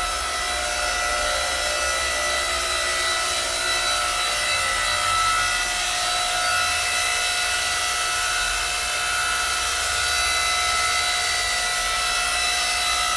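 Electric motor and hydraulic pump of a 7-ton electric log splitter running steadily, a constant hum with several steady whining tones.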